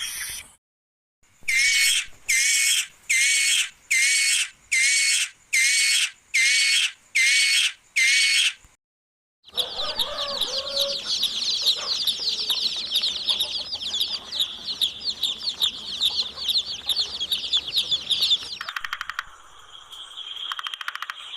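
Bird calls: one call repeated nine times at an even pace, then a long stretch of rapid, overlapping chirping calls, changing near the end to a different fast ticking sound.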